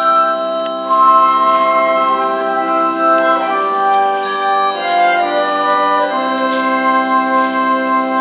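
Organ music: sustained chords that change a few times, about three and a half, five and six seconds in.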